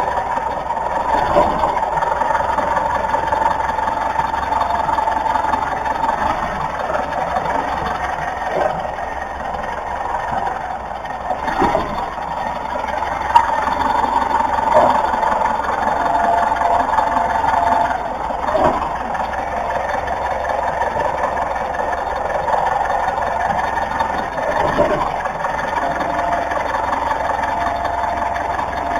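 Car running with a steady mechanical and road noise, broken by a few sharp knocks several seconds apart: the weird sound that the owner links to a shock absorber.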